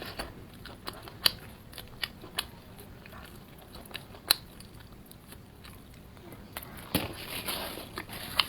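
Close-up biting and chewing of crispy fried food: scattered sharp crunches over chewing, busier and louder about seven seconds in.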